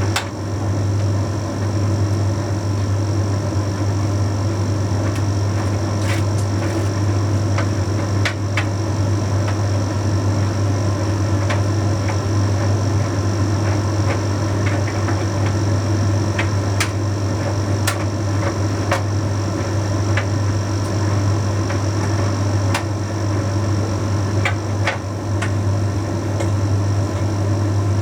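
Bosch Series 6 heat pump tumble dryer running mid-cycle on a load of shirts: a steady low hum from the motor and compressor under the drum's rumble, with occasional light clicks.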